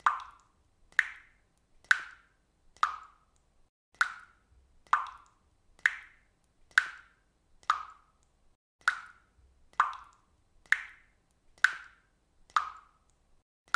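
Water dripping from a faucet, one drop landing about every second in a steady rhythm, each a short plop with a brief ringing tone.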